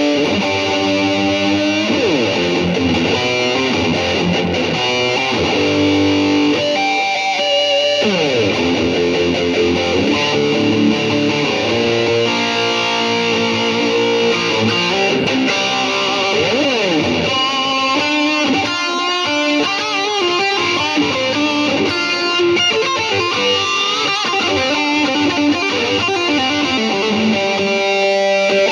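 Electric guitar played through an Atomic AmpliFire amp-modelling pedal and heard through cheap computer speakers: loose lead noodling with several sweeping pitch dives and slides, and quick runs of picked notes in the second half.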